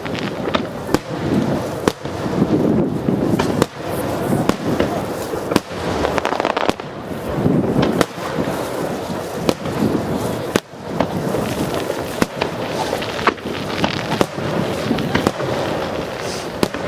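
Fireworks bursting in quick succession, many sharp bangs and pops one after another over a continuous booming rumble.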